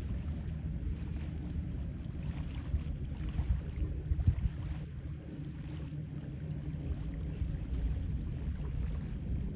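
Jet ski engines droning in the distance, a faint steady engine tone that grows a little stronger near the end, under low rumbling wind on the microphone.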